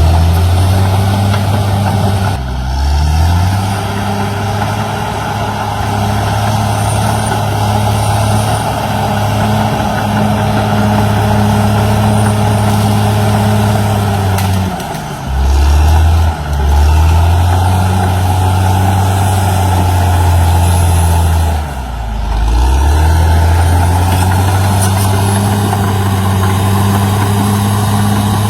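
CAT D6R XL bulldozer's diesel engine running steadily. Its pitch drops briefly three times, about two seconds in, around halfway and about three quarters through, and each time climbs back.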